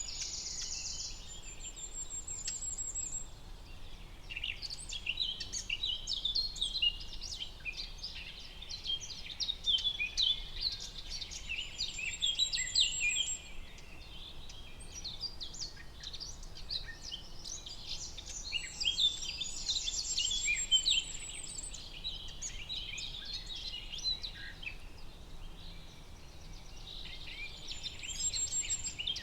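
A chorus of forest birds chirping and singing, with many short calls overlapping. A high, rapid trill recurs every several seconds.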